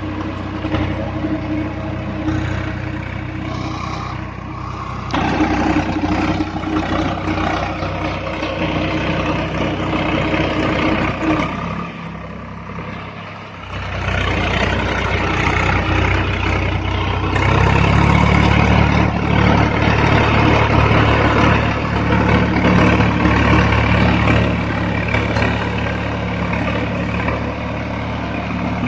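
Swaraj 744 FE tractor's three-cylinder diesel engine running. It dips briefly about twelve seconds in, then runs louder and heavier from about seventeen seconds.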